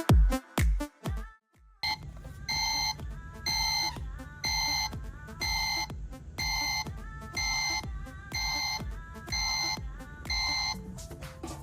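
Dance music ends with a few fading beats. After a short pause, a steady electronic beeping begins, like an alarm clock, repeating about every three-quarters of a second over a low hum.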